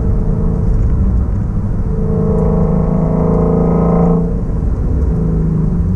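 Shelby Mustang GT350's 5.2-litre flat-plane-crank V8 running at a steady pitch while driving. About two seconds in, its exhaust note grows louder and brighter for around two seconds, then drops back.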